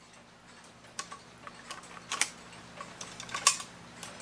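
Light, irregular clicks and taps of a clock movement being handled and fitted onto its mounting pins in a mantel clock case, two of them louder than the rest.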